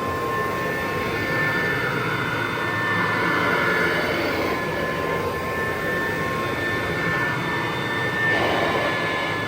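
1963 Kirby Sanitronic VII upright vacuum running on carpet: its motor and fan give a steady high whine over a rush of air, swelling slightly now and then.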